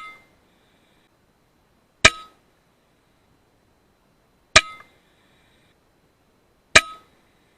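Shots from a .22 FX Impact M3 PCP air rifle: one right at the start and three more about two to two and a half seconds apart. Each is a sharp crack with a brief metallic ring.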